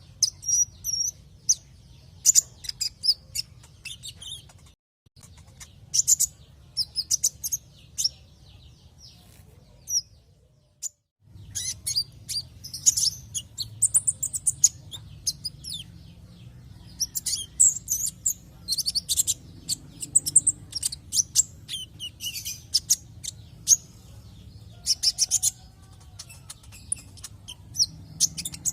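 Konin sunbird song: rapid, high-pitched chirps and twittering trills in quick bursts. The sound cuts out briefly twice, near 5 seconds and again around 10 to 11 seconds, over a faint low hum.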